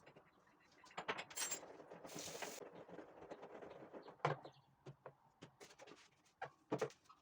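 Light knocks and clicks of household items being handled and set down during kitchen cleaning, with a brief high hiss about two seconds in.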